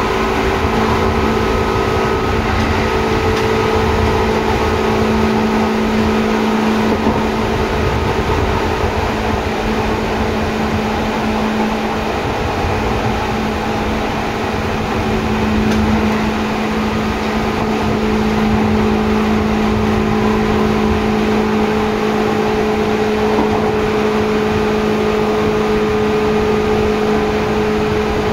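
Seibu 2000 series electric train running at a steady speed, heard from inside the car: a loud, even rumble of wheels on rail with a steady droning hum that holds nearly the same pitch throughout.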